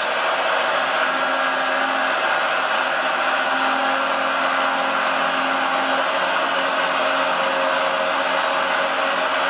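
Small electric motors of a remote-controlled model construction machine whirring steadily with a faint hum underneath.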